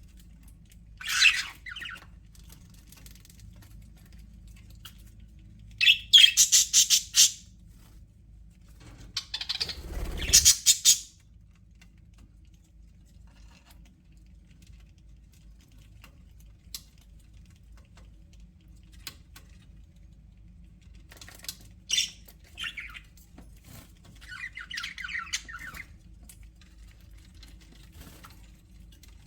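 Budgerigars squawking and chattering in short, rapid bursts several seconds apart, the loudest a couple of seconds in the first half and a softer run of chatter near the end, over a steady low hum.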